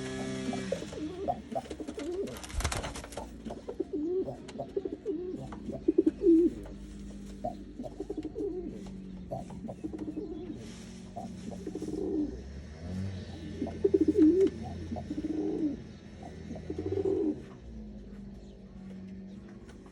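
Pigeons cooing over and over in low, rolling coos, with a few sharp clattering clicks mixed in.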